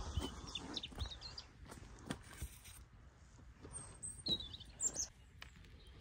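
Small birds chirping now and then, short high chirps, with a few soft knocks and taps from handling over a faint outdoor background.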